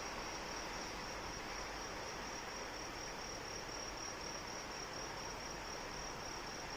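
Steady rain with singing insects, crickets by their sound, keeping up a high, evenly pulsed trill.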